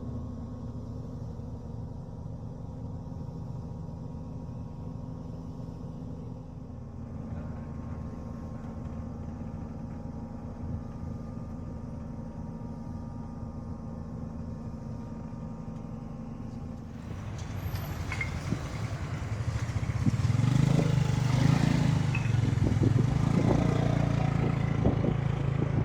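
A motor vehicle engine running with a steady low hum. Past the halfway point it turns rougher and gets clearly louder, as if pulling away or working harder.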